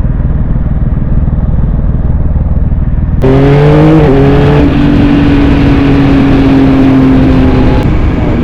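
Yamaha MT-09's three-cylinder engine running: a low, muffled rumble, then about three seconds in an abrupt change to a louder, clearer note that climbs briefly under acceleration and then holds steady, slowly sinking in pitch.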